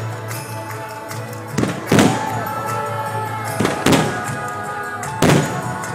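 Fireworks shells bursting in sharp booms, in quick pairs about two and four seconds in and once more near the end, over a show soundtrack of taiko drums and shamisen played over loudspeakers.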